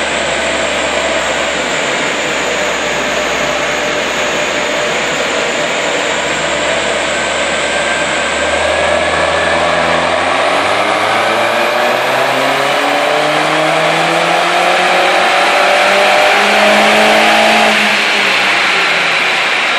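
MINI John Cooper Works Clubman's 1.6-litre turbocharged four-cylinder on a chassis dynamometer during a power run, over a steady loud rushing noise. About eight seconds in, the engine pulls under load with its pitch rising steadily for about ten seconds, then cuts off sharply near the end as the throttle closes.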